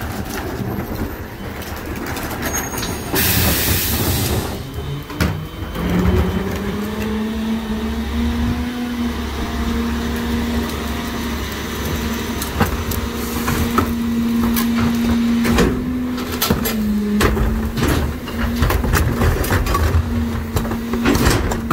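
NewWay rear loader garbage truck compacting heavy trash: the engine runs at raised speed to drive the packer hydraulics with a steady hum, over repeated clanks and crunches of the load. A hiss of air lasts about a second and a half, about three seconds in.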